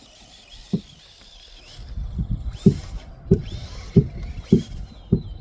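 Footsteps walking at an even pace, starting about two seconds in, a thump about every 0.6 s. A faint steady high whine comes in near the end.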